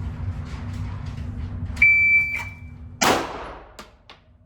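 Electronic shot timer's start beep, a steady high tone about half a second long, followed about a second later by a single pistol shot that rings in the indoor range.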